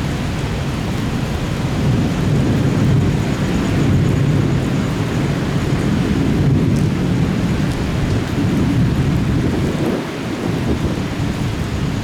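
Thunderstorm: steady heavy rain with a continuous deep rumble underneath, easing slightly about ten seconds in.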